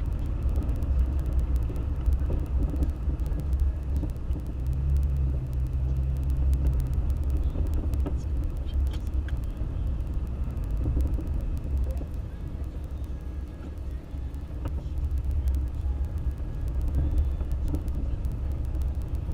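Toyota FJ Cruiser driving on a snowy road: a steady low engine and road rumble, with a brief steady hum about five seconds in.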